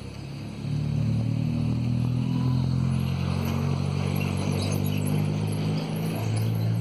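Steady rain hiss during a storm, with a loud low rumble that comes in about a second in and holds steady.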